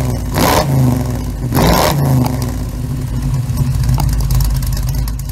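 Car engine revved twice in quick succession in the first two seconds, then running steadily until it cuts off suddenly at the end.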